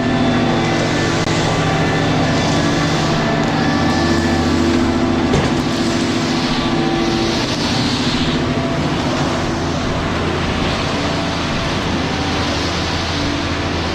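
Heavy diesel engine running at a steady speed, a constant low hum with layered engine tones.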